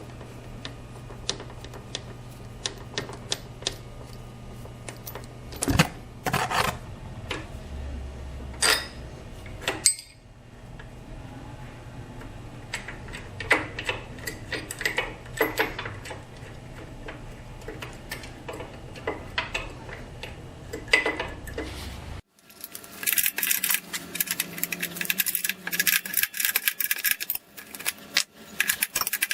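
Metal hand tools clicking, clinking and knocking against motorcycle parts, scattered strikes over a steady low hum. About 22 seconds in the sound breaks off and a denser run of rapid metallic rattling and clatter follows.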